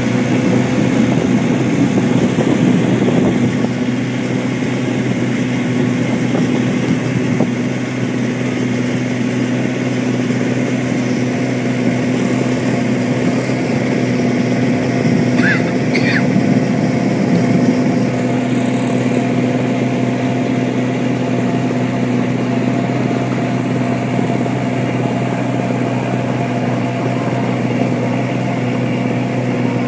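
Small boat engine running steadily at constant speed, with two short high squeaks about halfway through.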